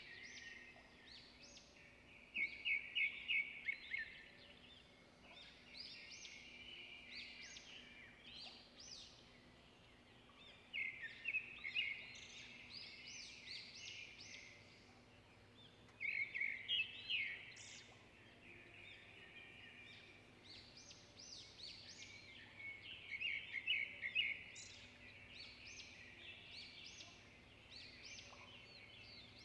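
Birds chirping and trilling in repeated bursts of quick, high chirps every few seconds. The loudest bursts come a couple of seconds in, near the middle and about three quarters through.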